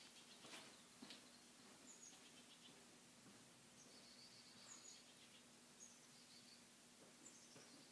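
Near silence: a quiet outdoor background with a faint steady hum and a few faint, short bird chirps now and then.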